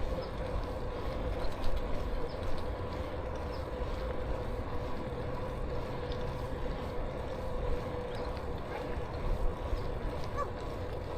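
Riding noise from a moving bicycle: wind on the microphone and tyre rumble, with a faint steady whine throughout.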